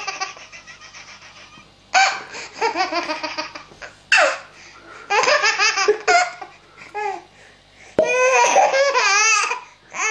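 A baby laughing loudly in about six fits. Each fit is a quick run of high-pitched 'ha' pulses, with short breaths between them.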